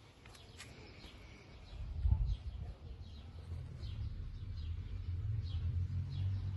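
A small bird chirping over and over, about two short high chirps a second. About two seconds in, a low steady hum comes in beneath it.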